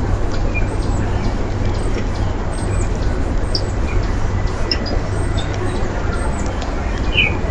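Steady low rumble and hiss of outdoor background noise, with scattered faint short chirps from small birds at a backyard feeder and a brief louder bird call near the end.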